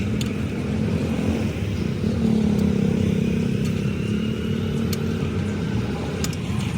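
Tractor engine running steadily, a little louder from about two seconds in, with a few light clicks over it.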